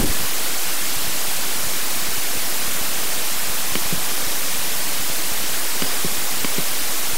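Steady white-noise hiss with no music, broken only by a few faint clicks. The hiss is the noise that a demo version of Audio Hijack Pro lays over the recorded audio.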